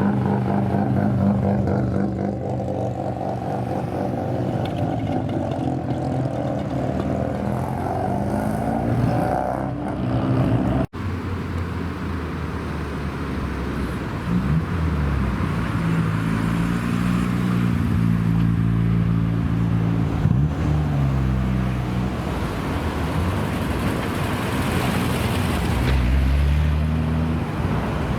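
Car engines running, idling and revving with the pitch rising and falling several times in the second half; the sound cuts out abruptly for an instant about eleven seconds in.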